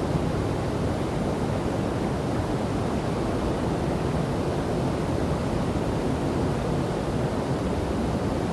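Steady rushing of a waterfall and river, an even low rumble of falling water with no change or distinct events.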